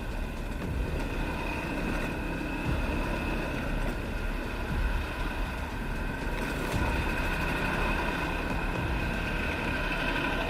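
Motorcycle engine running steadily at low speed with road and wind noise, heard from a camera on the bike, with a steady whine over a low rumble.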